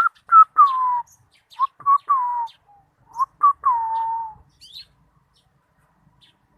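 Lovebird calling: three short groups of chirps, each ending in a falling whistled note.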